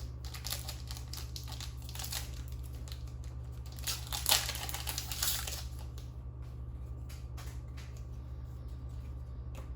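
Trading cards being handled and flipped through, with light rustling and crinkling clicks that are busiest about four to five and a half seconds in and then thin out, over a steady low electrical hum.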